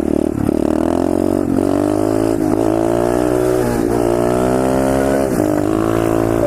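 SSR 125cc pit bike's single-cylinder four-stroke engine accelerating hard for a wheelie, the revs climbing and breaking off at each gear change, several times over.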